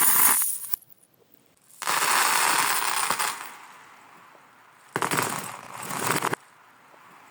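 Marbles rolling and rattling along a marble run track in several runs of a second or more, with quieter gaps between them; one run cuts off suddenly.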